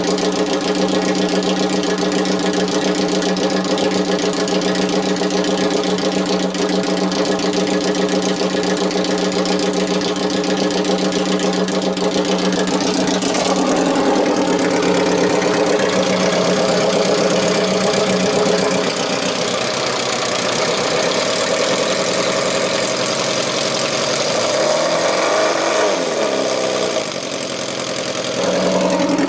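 Yamaha XJR400R's air-cooled inline-four engine running, steady at idle for the first half, then its speed shifting, rising and falling a few times in the second half with a short dip in level near the end.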